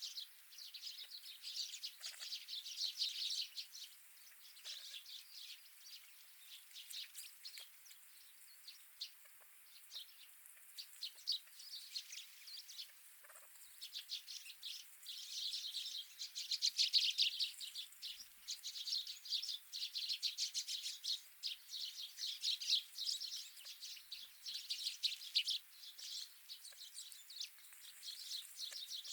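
A flock of wild birds calling and chirping. Short, high chirps come in quick bursts, thickest about halfway through.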